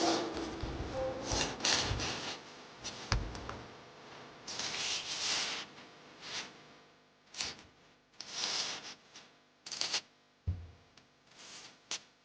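Irregular rustling and scraping strokes, each up to about a second long, with a few soft knocks: close-up handling noise.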